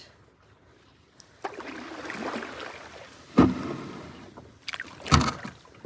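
Solo canoe being brought in to land: a swish of water from about a second and a half in, then two loud knocks on the canoe a couple of seconds apart, the first the loudest, with a few lighter knocks between them.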